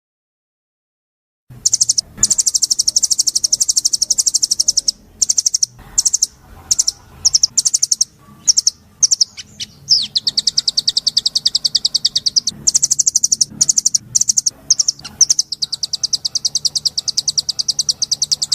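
Songbird singing long, very rapid high-pitched trills in runs broken by short pauses, starting after about a second and a half of silence, over a faint low hum.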